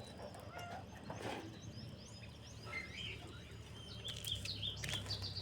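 Birds chirping in scattered short calls and little rising notes, with a quick run of repeated high notes near the end. A faint low steady hum rises under them from about four seconds in.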